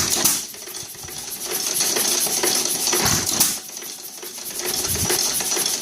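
Big Chief 2.5 hp engine running, with a fast, steady metallic clatter and heavier thumps every second or two.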